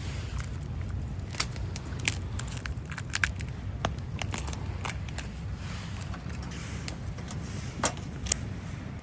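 Wood fire crackling, with sharp pops scattered through it over a steady low rumble.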